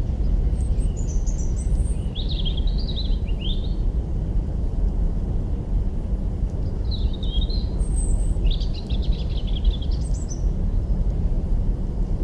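A small bird sings two spells of quick, varied chirps, the first starting about half a second in and the second about six and a half seconds in, over a steady low rumble.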